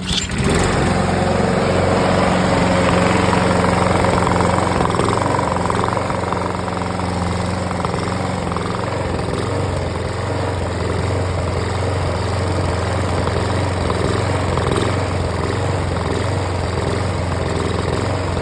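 Toro Super Recycler lawnmower's small single-cylinder engine running steadily with its primer bulb not fully seated. The fuel supply is restricted: it keeps running, but not very well, surging a little.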